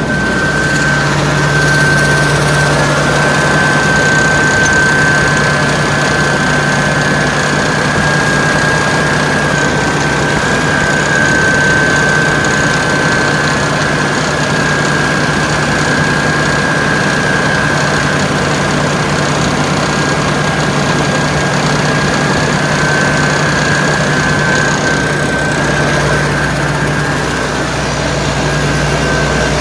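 Engine running steadily at a constant speed through its newly fitted exhaust, with a steady high-pitched whine over the engine note.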